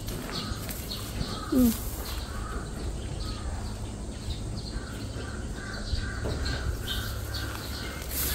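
Birds chirping and calling in short scattered notes over a steady low rumble, with one brief low rising sound about a second and a half in.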